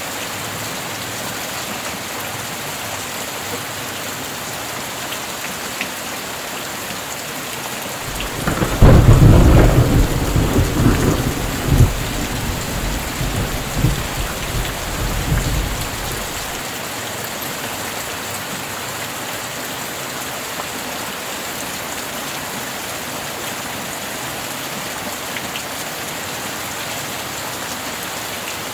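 Steady heavy rain with a thunder clap about a third of the way in: a sudden loud crack followed by rumbling with a few further cracks, fading away after several seconds while the rain goes on.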